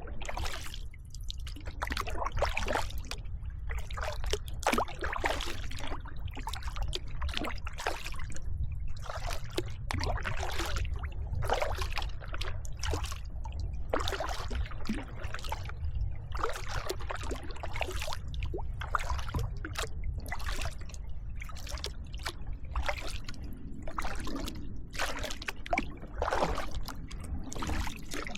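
Kayak paddling: the blades dip and splash in an irregular rhythm, with water trickling and dripping off them, over a steady low rumble.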